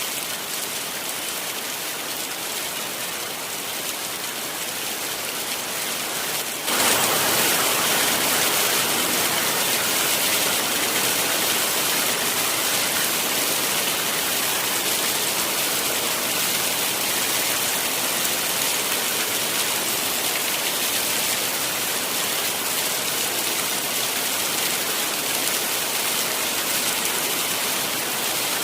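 Heavy rain falling steadily, an even hiss with no distinct drops. About seven seconds in it jumps abruptly louder and brighter, then holds steady.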